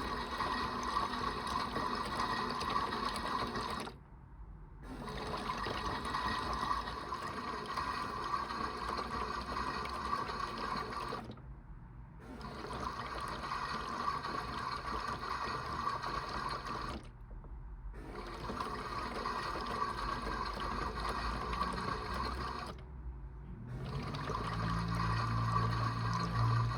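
Water sloshing and trickling inside a toy washing machine's drum, in stretches of about six seconds broken by short pauses. A low motor hum joins near the end.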